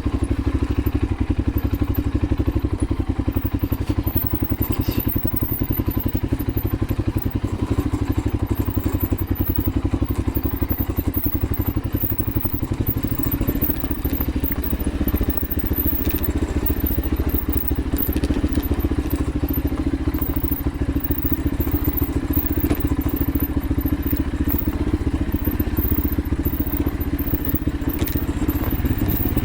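AKT TTR 200 dual-sport motorcycle's single-cylinder engine running steadily while riding, with a few light knocks and clatters from the rough dirt trail.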